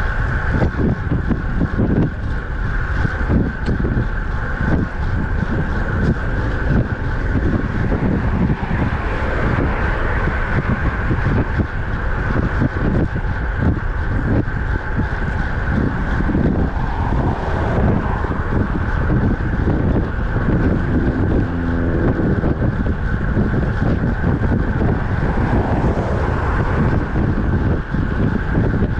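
Wind buffeting the microphone of a road bike riding at speed, gusting unevenly, over steady road and traffic noise.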